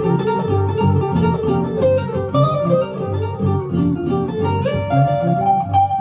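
1953 Gibson ES-125 archtop guitar playing a run of picked single notes over a steady, regular low bass pulse.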